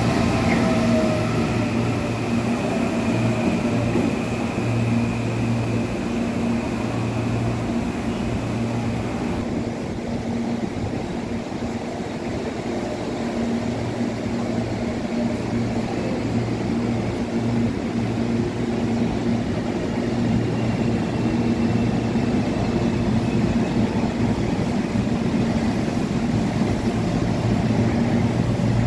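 Electric commuter train running past a station platform, its traction motors whining and falling in pitch in the first few seconds. Under it, steady rail rumble and a constant low hum.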